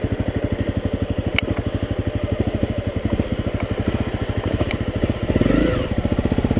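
Honda CRF250L's single-cylinder four-stroke engine running at low revs with an even, rapid putter; the engine note briefly rises and falls about five seconds in.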